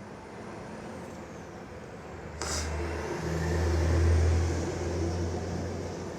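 A motor vehicle going past: a low engine rumble starts suddenly, swells to its loudest about four seconds in, then slowly fades.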